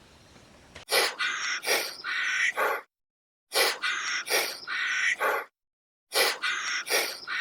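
A bird call starting about a second in and repeated three times, each a phrase of several quick notes about two seconds long, with short dead-silent gaps between the repeats.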